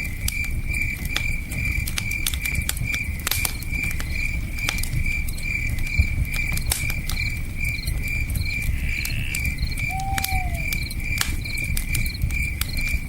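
Campfire crackling with scattered sharp pops over a steady low rumble of flames and river water, while crickets chirp in an even pulsed trill, about three chirps a second. A single short falling call sounds about ten seconds in.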